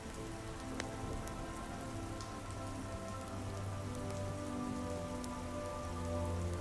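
Steady soft rain with scattered small ticks and drips, over slow sustained ambient synth chords that hold and shift gently.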